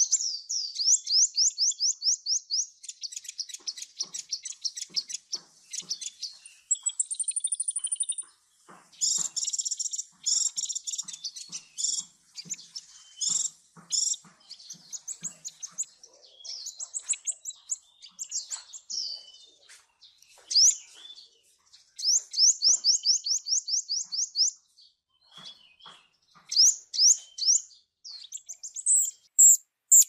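Small birds chirping: fast series of high, sweeping notes run into trills of about ten notes a second, broken by scattered single chips and a brief high whistle about a quarter of the way in.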